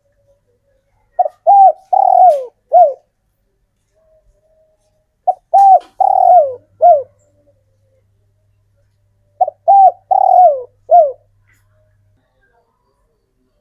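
Male spotted dove singing: three cooing phrases about four seconds apart, each of four falling coos with the third drawn out longest.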